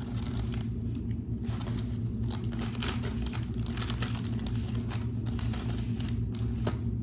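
Crinkling and crackling handling noise as takeout barbecue ribs are picked up and pulled apart in their wrapping, a dense run of small crackles starting about a second and a half in, over a steady low hum.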